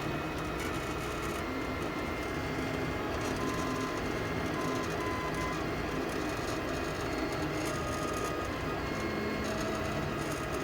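FLSun delta 3D printer running its first print, its stepper motors singing in short tones that shift pitch every second or so as the effector moves, over a steady hiss.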